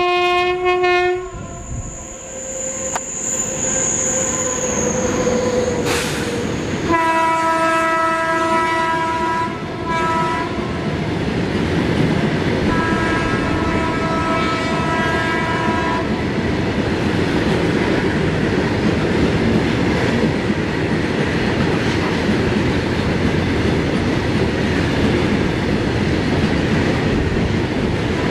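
Electric locomotive horn blowing as a freight train runs through at speed. One blast ends about a second in, a longer one sounds from about seven to ten seconds, and a fainter one from about thirteen to sixteen seconds. Throughout, and alone after the horn stops, comes the steady rumble and wheel clatter of a long rake of open freight wagons passing close by.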